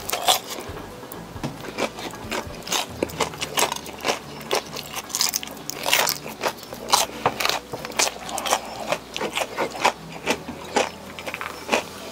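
Close-miked eating: crispy fried shrimp being bitten and chewed, with many irregular crunchy crackles.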